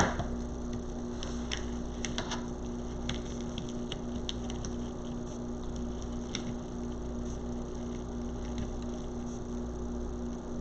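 Steady low electrical hum with faint light clicks and rustles scattered through the first half, from ribbon being handled and twisted onto a wreath board.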